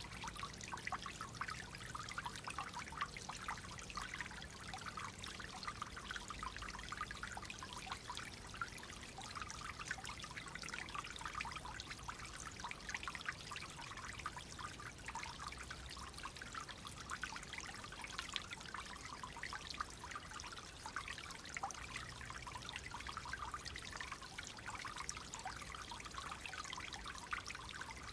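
Clear water flowing gently in a small stream, a steady trickling and babbling with fine, quick splashes.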